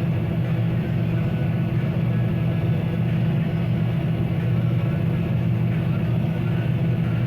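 John Deere 9750 STS combine running under load while harvesting wheat: a steady, unchanging low drone of engine and threshing machinery, heard from inside the cab.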